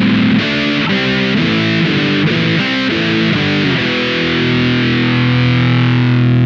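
Electric guitar played through a Velouria FX Witchcraft distortion/preamp pedal: a run of distorted chords changing about twice a second, then one chord left ringing from about four seconds in.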